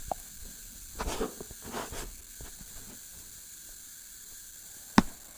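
Quiet room tone with two soft, brief hissing swells early on and a single sharp click near the end.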